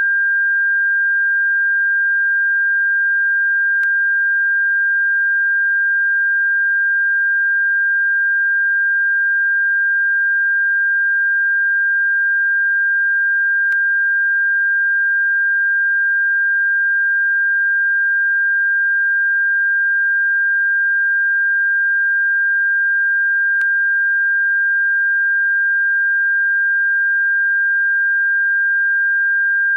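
A steady, pure electronic sine tone at about 1.5 kHz, played as a bird-repellent frequency, with faint clicks about every ten seconds.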